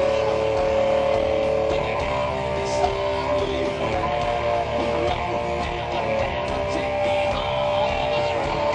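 Live rock band playing an instrumental passage, with electric guitar notes held over bass and drums.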